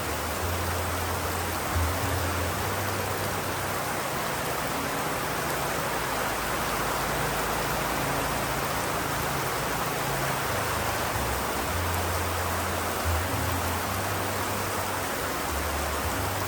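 Steady rain falling, an even hiss, with a low hum that comes and goes underneath.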